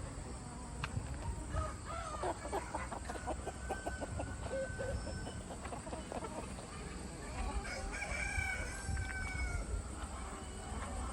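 Chickens clucking in quick runs, with a rooster crowing in long held calls in the middle and again a little later.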